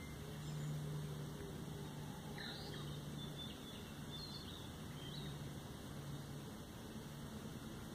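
A few faint, short bird chirps, scattered over a few seconds, above a low hum that comes and goes.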